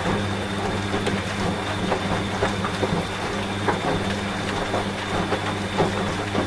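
Steady rain with many small drop impacts, mixed with the steady low hum of a running washing machine.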